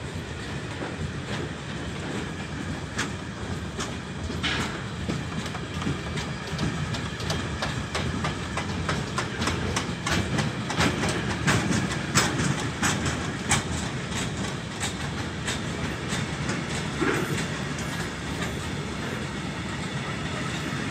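Freight train wagons rolling past, the wheels clicking and clattering over the rail joints in a steady rhythm, loudest in the middle. A brief squeal comes about four seconds in and another near the end.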